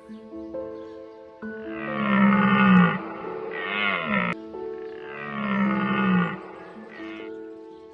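Loud, rough animal calls: two long calls with a shorter, falling call between them, over background music of steady held notes.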